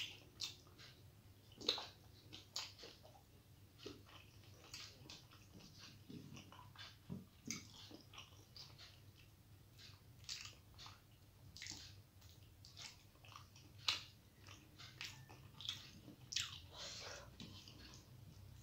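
Close-up eating sounds of a person chewing rice and curry eaten by hand: irregular wet mouth smacks and clicks, a few sharper ones standing out, over a faint low hum.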